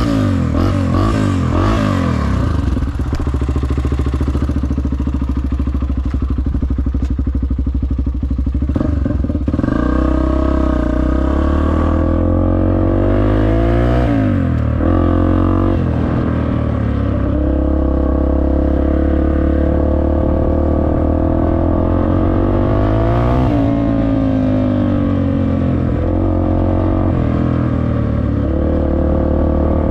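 Dirt bike engine running under a rider on a trail, its pitch repeatedly rising and falling as the throttle is worked and gears change, with clatter from the bike over rough ground.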